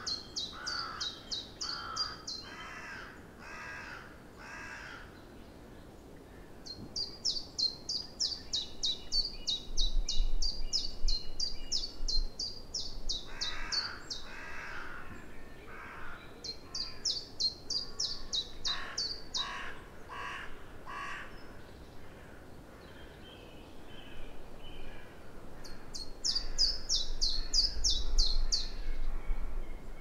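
Woodland birdsong: a small songbird sings fast, high trilled phrases in bursts of a few seconds, repeated several times, over a second bird's lower calls repeated about twice a second.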